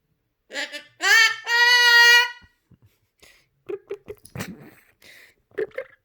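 Pet cockatoo calling: one loud, drawn-out call that rises and then holds steady about a second in, followed by shorter calls and a few sharp clicks.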